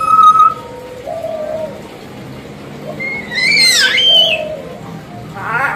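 Hill myna calling: a steady whistle at the start, then a loud call that slides up and down about halfway through, and a quick sweeping note near the end.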